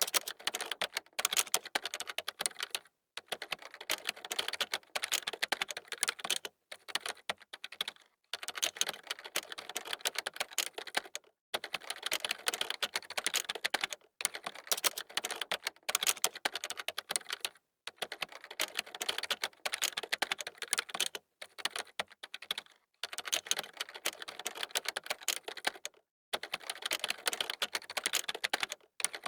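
Typing on a computer keyboard: fast, dense runs of key clicks a few seconds long, broken by short pauses.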